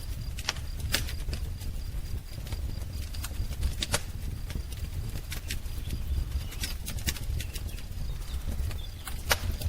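Wood fire burning in a fireplace, crackling with irregular sharp pops over a steady low rumble; louder pops about a second in, about four seconds in and near the end.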